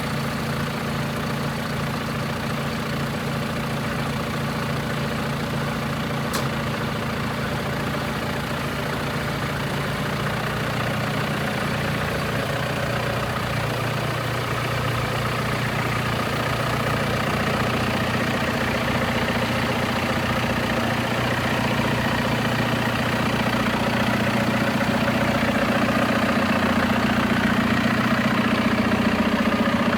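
John Deere 6125M tractor's diesel engine idling steadily. Its note shifts slightly about ten seconds in, and it grows a little louder over the second half.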